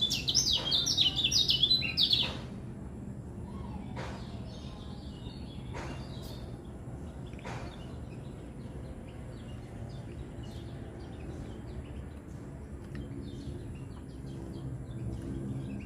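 White-eye (kecial) singing a loud, rapid twittering song for about two seconds, then only faint scattered chirps. A few sharp clicks and a steady low hum run underneath.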